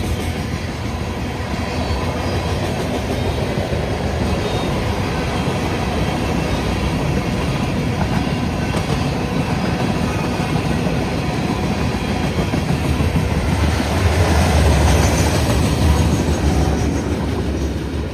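Freight train rolling past close by, its wheels clicking over the rail joints in a steady rumble that swells loudest about three-quarters of the way through, then eases off.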